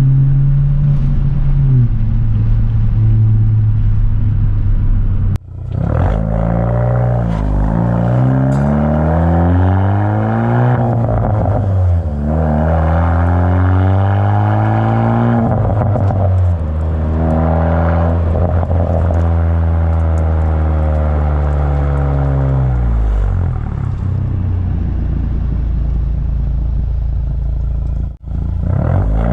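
Straight-piped turbocharged 10th-gen Honda Civic, its exhaust still running through the stock downpipe with catalytic converters, accelerating through the gears. The note climbs in pitch and drops back at each upshift several times, then falls away steadily as the car eases off. The sound cuts out briefly twice.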